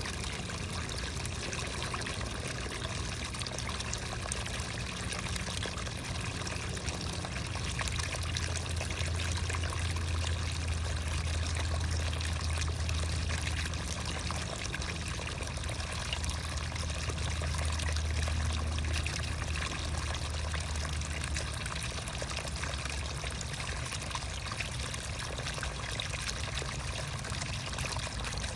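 Creek water trickling and pouring steadily, with a low rumble underneath that grows stronger for several seconds in the middle.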